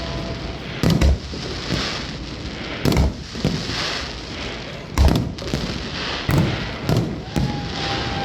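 Fireworks exploding: a series of sharp bangs, the loudest about one, three and five seconds in and several more closer together near the end, over a continuous noisy haze between them.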